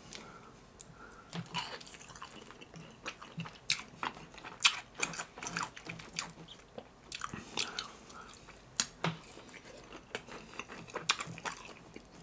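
Close-miked chewing of crispy KFC fried chicken tenders: irregular crunches of the breading, sometimes several in quick succession, with quieter chewing between.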